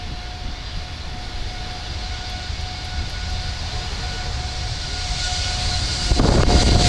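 Jet airliner engines growing steadily louder, with a thin steady whine over the rumble. About six seconds in, the noise jumps to a much louder rush.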